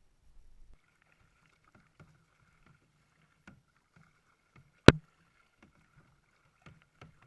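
Kayak on the water: scattered soft knocks and splashes of paddling, with one sharp, loud knock about halfway through, over a faint steady hum.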